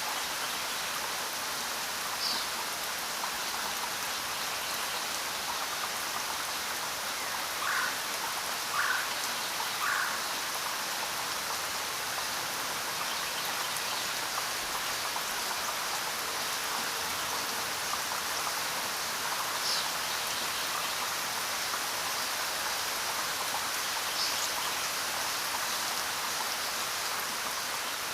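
Steady rain falling, an even continuous hiss of drops. A few short faint chirps rise above it, three in quick succession about a third of the way in.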